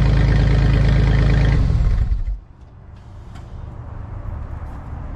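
Ford F-150 V6 engine running loud with its exhaust taken off, then switched off about two seconds in, dying away within half a second. A quieter low hum and a few faint ticks remain after it stops.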